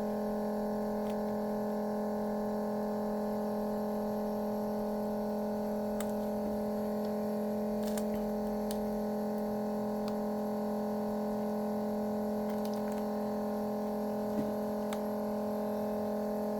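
A steady electrical hum at a few fixed pitches, unchanging throughout, with a few faint small clicks.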